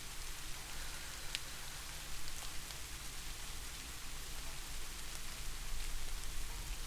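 Steady rain falling, an even hiss with the occasional faint drip tick.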